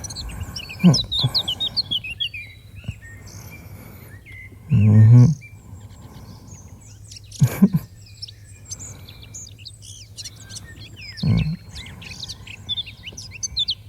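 Birds chirping steadily, with a man's low hum about five seconds in and a few shorter low sounds from him later on.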